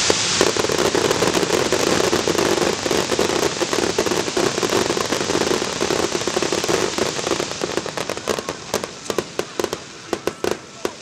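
Fireworks going off in a dense, continuous crackle that thins after about eight seconds into scattered, separate sharp pops.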